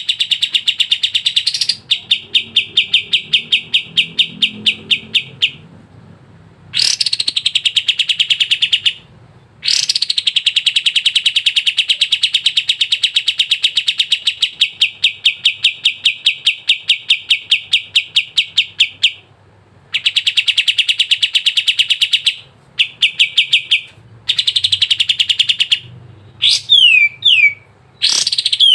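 A kapas tembak songbird singing in long, rapid trills of repeated high notes, each run lasting several seconds with short pauses between. Near the end come a few quick downward-sliding whistles.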